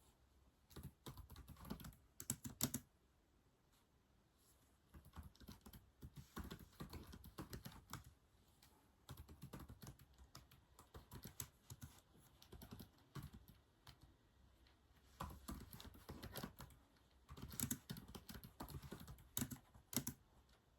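Typing on a keyboard: runs of rapid key clicks with short pauses between them, quiet.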